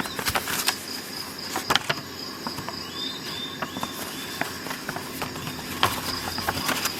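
Irregular clicks and knocks from handling a Swiss Army knife and its packaging, with a steady, high, pulsing tone in the background.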